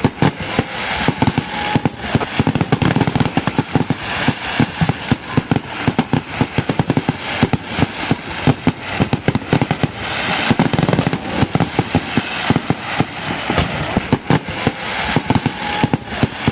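Fireworks and firecrackers going off in dense, rapid volleys of sharp bangs and crackles, with hardly a break.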